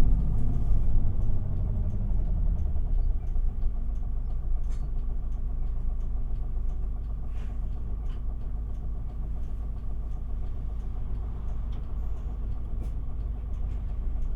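Isuzu Erga city bus's diesel engine, heard from inside the passenger cabin. The engine note drops about two seconds in, as the bus comes off the throttle, then settles into a steady low running hum.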